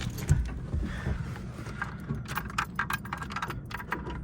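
A few low thumps, then a run of light clicks and jingles from about two seconds in, typical of keys jangling at the ignition, over a low background rumble. No fuel pump priming buzz is heard: the pump on this VW MK2 Golf 16V has failed.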